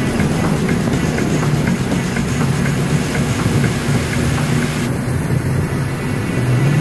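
Heavy truck engine running steadily with a deep hum. The higher hiss cuts off about five seconds in.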